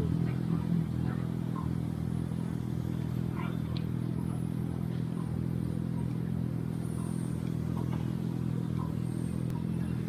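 Steady low motor hum holding one pitch throughout, with faint scattered clicks.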